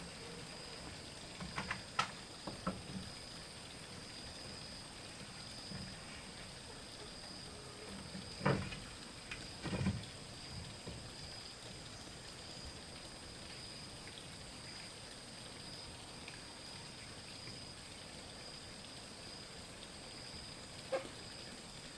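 A few scattered wooden knocks and taps from bamboo being handled: a small cluster a couple of seconds in, two louder knocks around the middle, and one near the end. Under them runs a faint, steady, high-pitched drone.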